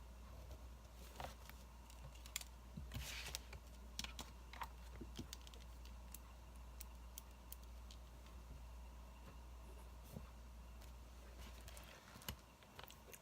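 Wood fire crackling faintly, with irregular sharp pops and snaps.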